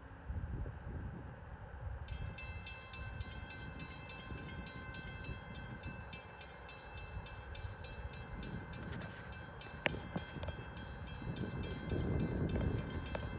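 NJ Transit electric train passing: a low rumble of wheels on rail with a fast, even clicking from about two seconds in and a steady high whine, the rumble swelling near the end.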